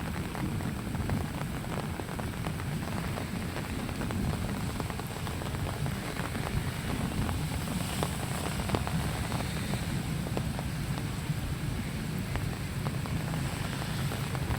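Steady rain falling, with many small scattered drop ticks over a low rumble.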